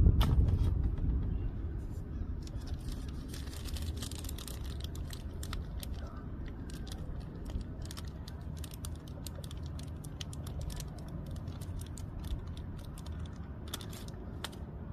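Irregular small clicks and light knocks of hand tools and filter parts being handled during an oil change, over a steady low rumble.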